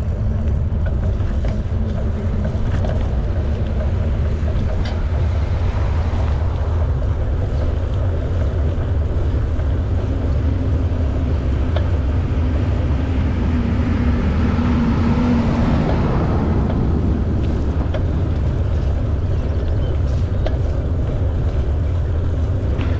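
Steady low rumble of wind on the microphone while cycling, with a hum that swells and fades about halfway through.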